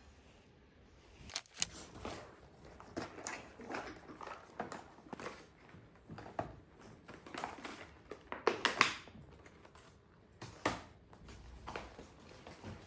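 Small, irregular clicks, scrapes and crunches of a meal at the table: cutlery on plates and chewing. The loudest cluster comes about eight and a half seconds in.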